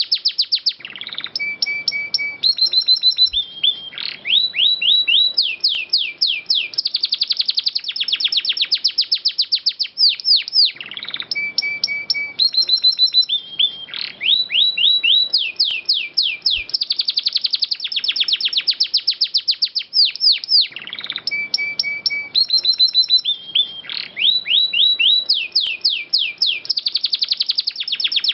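Domestic canary singing long, fast rolling trills and quick sweeping notes high in pitch, with hardly a pause. The same run of phrases comes round about every ten seconds, as in a looped masteran recording played to teach other canaries.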